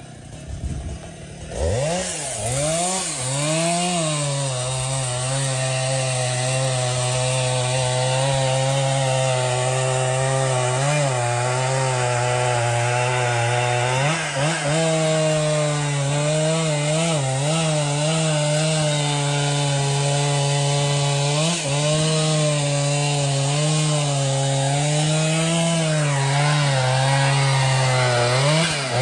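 Chainsaw revved up about two seconds in and running at high speed under load as it cuts into a tree, the engine note holding steady with a few brief dips and wobbles.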